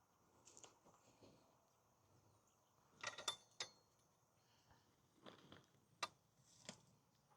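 Near silence broken by a few faint clicks and knocks: a small cluster about three seconds in, then single sharp clicks around five and six seconds.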